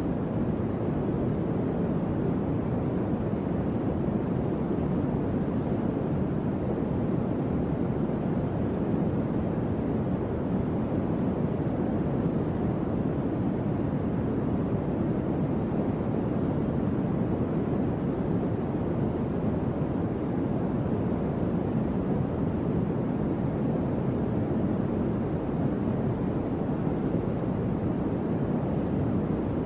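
Electric fan running steadily, a constant low whooshing airflow noise with no change in speed.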